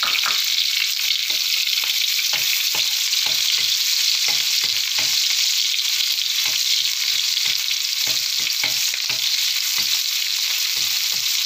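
Chopped shallots and garlic sizzling in hot oil in a wok, a steady hiss, with a metal spatula scraping and knocking against the pan many times as it stirs them.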